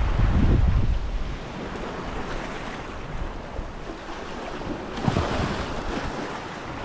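Sea waves washing against shoreline rocks, with wind buffeting the microphone as a low rumble for the first second or so. A wave surges up louder about five seconds in.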